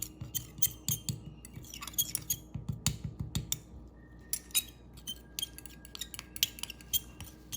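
A teaspoon clinking and tapping against a small container while hand-feeding formula is mixed: irregular light clinks, several a second.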